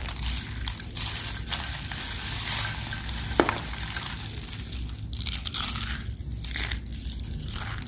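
White soap being crushed: a continuous crunchy crackling that breaks into separate crunches with short pauses between them near the end. There is one short, sharp crack about three and a half seconds in.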